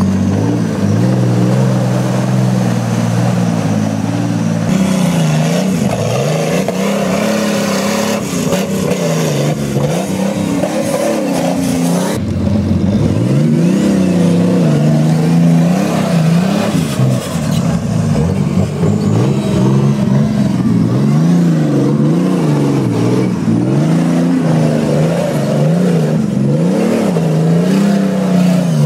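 Off-road trial 4x4's engine revving hard up and down over and over as it climbs a steep muddy slope, its pitch rising and falling every second or two.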